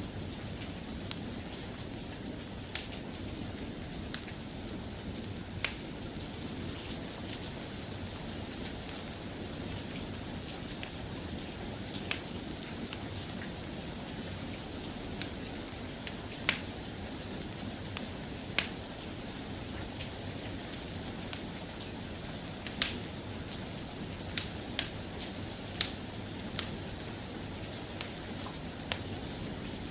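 Steady soft rain falling, with about a dozen sharp pops scattered irregularly through it, more of them in the second half.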